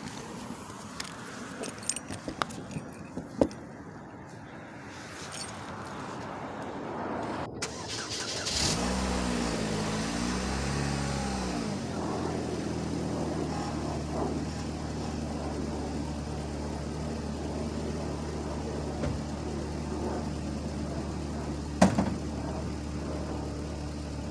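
Footsteps and scattered knocks, then about eight seconds in a car engine starts, revs up and down briefly, and settles into a steady idle. A single sharp bang near the end.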